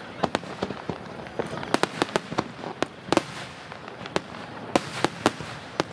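Aerial fireworks shells bursting in quick, irregular succession: a dozen or more sharp bangs over a steady crackle.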